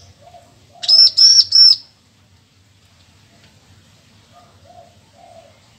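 Bar-winged prinia (ciblek) singing: a quick run of three loud, high, ringing notes about a second in. Faint low notes from another bird sound in the background, a few near the end.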